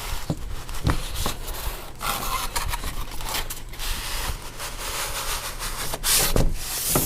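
Cardboard box and packing material rubbing and scraping as they are handled by hand, with a few sharp clicks and a louder scrape a little after six seconds in.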